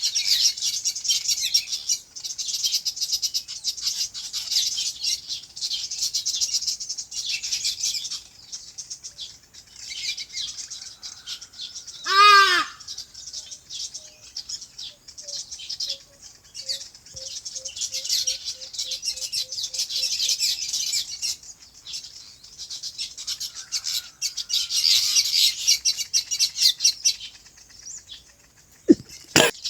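A chorus of many small birds chirping and twittering together in quick high notes, thinning out twice. About twelve seconds in, one loud harsh call from a larger bird cuts through. A faint, low, evenly spaced run of notes follows for several seconds.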